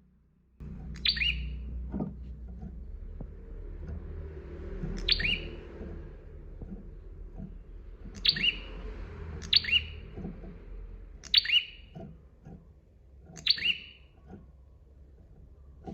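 A prenjak (prinia) calling: six sharp, high notes, each falling quickly in pitch, spaced a couple of seconds apart over a low hum.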